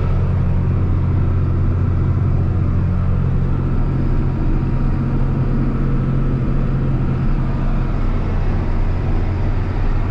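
Tractor engine running at a steady speed, heard from inside the cab, with a constant low hum and an even noise of driving over it.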